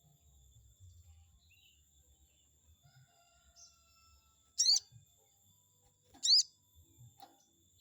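Sogon bird giving two sharp, high chirping calls about a second and a half apart, each a quick burst of zigzagging notes. Fainter short calls follow near the end. It is a lure call meant to provoke a rival sogon into answering.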